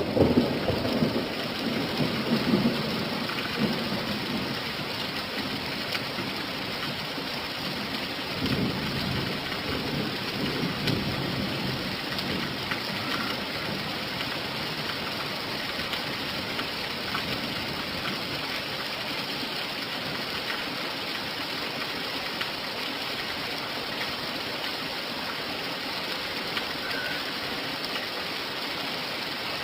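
Steady rain falling, with a rumble of thunder dying away in the first seconds and another low roll of thunder about eight seconds in.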